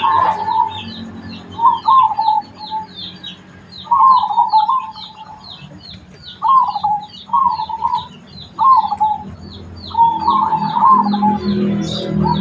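Zebra dove (perkutut) cooing, its short warbling phrases repeated about every second or two. Behind it, another bird gives a steady series of short high chirps, a little over two a second.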